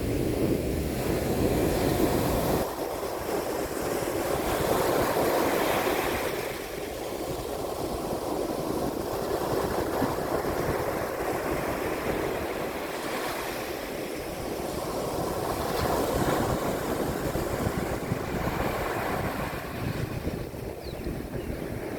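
Mediterranean sea waves breaking on a beach: a steady wash of surf that swells twice as waves come in. A low rumble of wind on the microphone stops abruptly about three seconds in.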